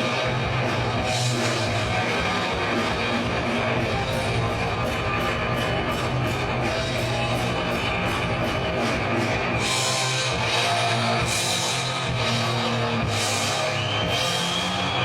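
Live heavy metal band playing: distorted electric guitars over a drum kit, with rapid cymbal strokes through the middle and heavier cymbal crashes in the second half.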